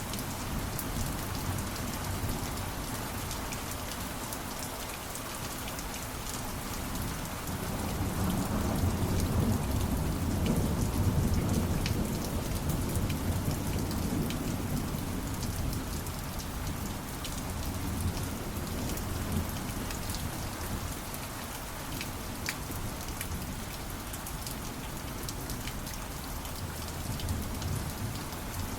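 Steady rainfall with scattered drop ticks, and a long low rumble of distant thunder that swells up about a third of the way in and slowly fades.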